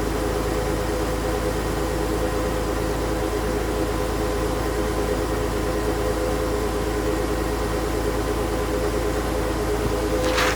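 2001 Porsche Boxster S's 3.2-litre flat-six idling steadily on its raised cold-start idle, smooth and even with no odd noises. A brief scuff near the end.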